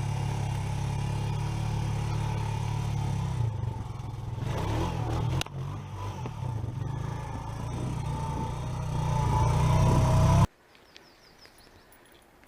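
Vehicle engine running steadily while driving, with a rattly stretch about four to six seconds in and the engine getting louder toward the end. It cuts off abruptly about two seconds before the end, leaving quiet outdoor background with a few faint high chirps.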